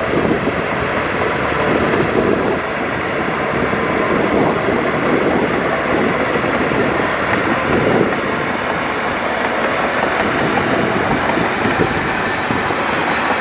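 Bulldozer and dump truck working the fill: diesel engines running steadily under a dense, continuous rattle of metal.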